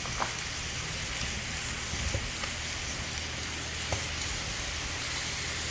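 Food sizzling in a hot pan: a steady hiss with a few faint clicks and pops.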